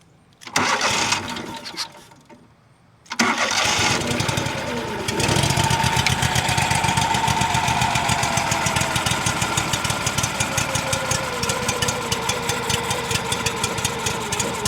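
Kohler CH-25 25 hp V-twin engine being started: a first try of about two seconds stops, then it cranks again and catches about five seconds in. It then runs steadily, its pitch easing down a little as it settles. This is the first start on a newly fitted replacement carburetor.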